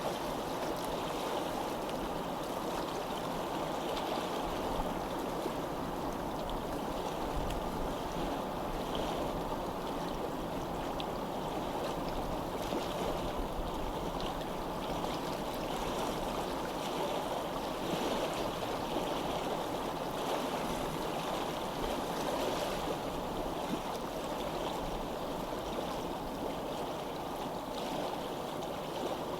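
Water running steadily, like a flowing stream, a constant rushing with faint splashy flickers.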